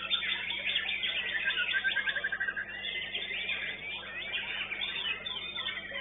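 White-rumped shama (murai batu) singing a dense run of varied whistled phrases, with a rapid trill about two and a half seconds in. The song overlaps with other caged birds singing at the same time.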